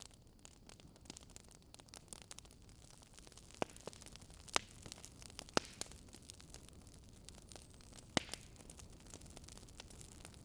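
Wood fire crackling: irregular sharp pops and snaps over a faint steady hiss, a few louder pops in the middle.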